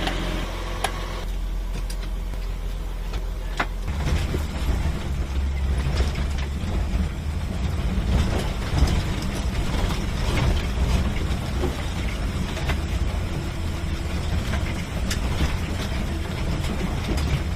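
1982 Jeep CJ7's engine running, louder and rougher from about four seconds in as it drives off, with scattered clicks and rattles.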